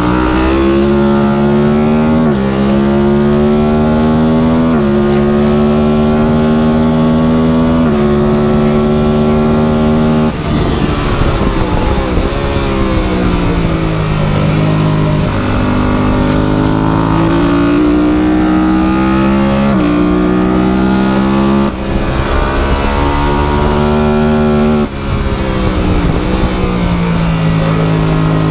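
A motor running hard throughout, its pitch stepping up and down several times as the engine speed changes.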